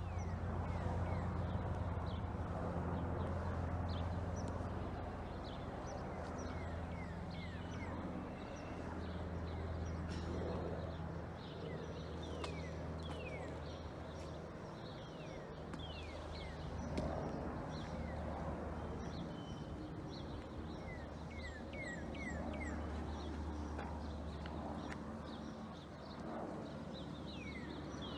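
Small birds chirping in short, high, falling notes over the low, steady drone of a distant helicopter, which swells and fades.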